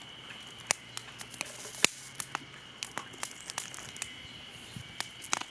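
Campfire of small twigs and branches crackling, with irregular sharp pops and snaps.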